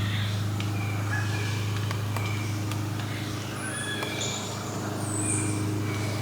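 Birds calling in the woods: many short whistled notes, some overlapping, at several different pitches, over a steady low drone.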